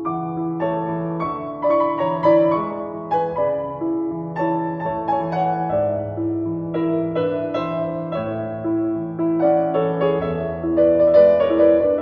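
Gentle piano music: a repeating low accompaniment under a melody of separate struck notes.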